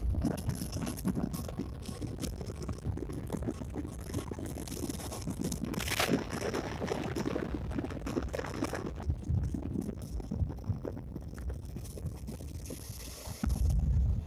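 Running noise of a moving express train heard from an open coach window: wheels rattling on the rails with wind buffeting the microphone. About 13.5 s in the sound jumps suddenly louder and deeper.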